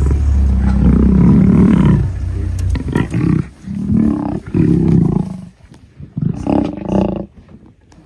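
Lions fighting, with loud growling roars: a long heavy bout over the first two seconds, then shorter bursts, dropping away after about five seconds with one more burst near the end.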